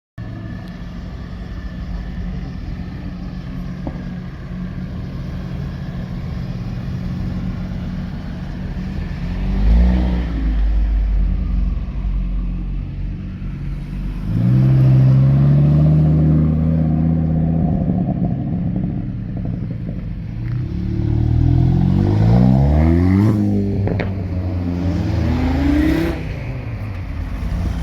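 Car engine idling and being revved several times: a short rev about a third of the way in, a longer held rev around the middle, and a run of quick blips rising in pitch near the end.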